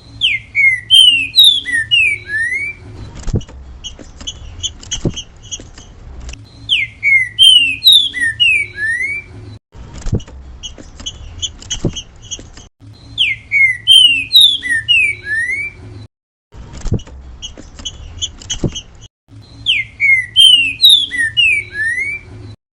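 Green-winged saltator (trinca-ferro) singing its 'grego mole boi' song: a short phrase of clear, sliding whistled notes, repeated four times about six seconds apart. Softer chirps and clicks fill the gaps between phrases.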